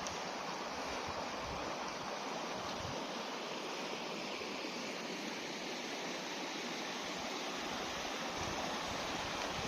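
River water rushing steadily over rocks, a continuous even rush with no change.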